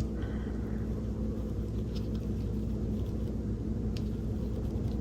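Steady low background hum with a few faint ticks, about two and four seconds in.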